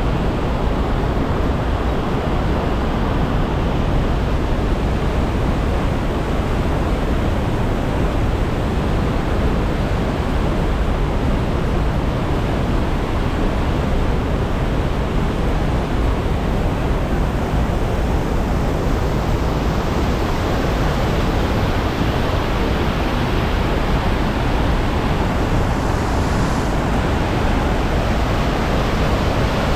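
Geli Ali Beg waterfall: a steady, loud rush of falling water. Wind buffets the microphone.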